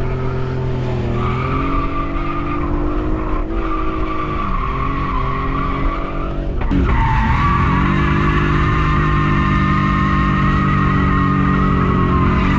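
Drift car engine held at high, steady revs through a slide, with tyres skidding. About six and a half seconds in, the revs drop sharply and climb back, and the engine runs on steady and a little louder.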